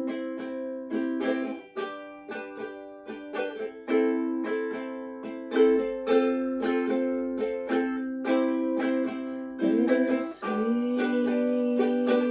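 Ukulele strumming chords in a steady rhythm, about three to four strokes a second, as an instrumental passage of a song.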